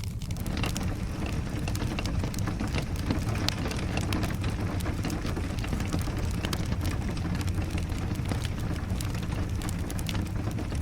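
Rain falling with a wood fire crackling: a steady low rumble under dense, small pops and ticks.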